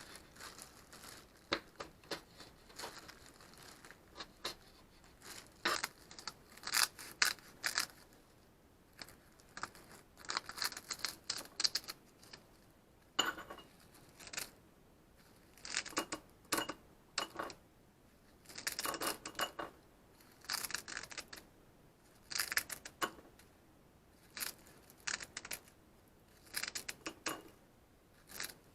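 Kitchen food-prep handling sounds: irregular clicks, clinks and short scrapes of utensils, some lasting a second or so, with brief pauses between.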